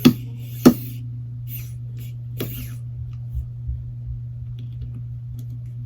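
Two sharp clicks about two-thirds of a second apart, then a fainter click and a few light ticks and scrapes: small screws and a tool handled against a phone's frame as its bottom screws go back in. A steady low hum runs underneath.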